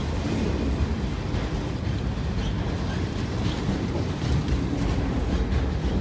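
Enclosed autorack freight cars rolling past at trackside: a steady low rumble of steel wheels on the rails, with a few faint clicks.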